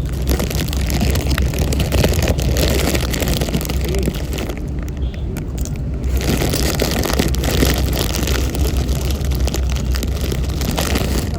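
Ferry deck noise: a steady low engine rumble under rough, gusting wind noise on the microphone.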